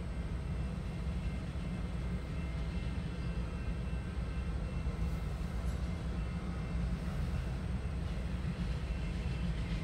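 Freight train of autorack cars rolling past, heard from inside a stopped car's cabin as a steady low rumble.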